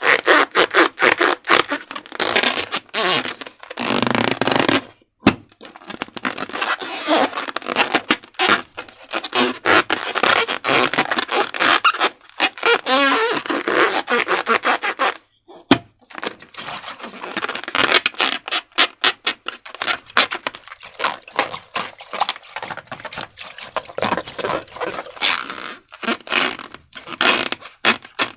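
Slime being squished and worked by hand: a dense run of sticky crackles, clicks and pops that breaks off briefly about five seconds in and again about fifteen seconds in.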